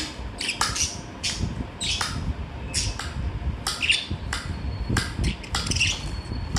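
Tame pet birds squawking: short, harsh calls repeated about twice a second, over a low background rumble.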